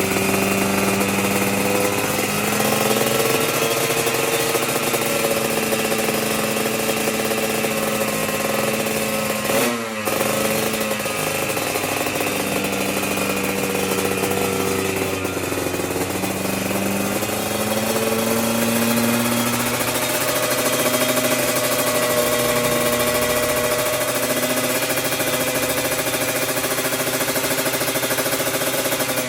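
Kawasaki Ninja motorcycle with an aftermarket exhaust idling steadily, its pitch wandering slightly, with a brief dip about ten seconds in.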